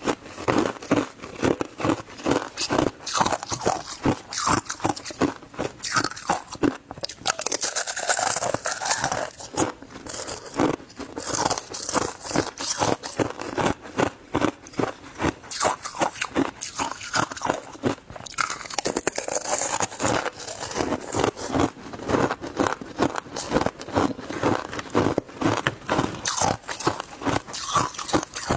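Shaved ice being bitten and chewed close to the microphone: a continuous run of sharp, crackly crunches, several a second.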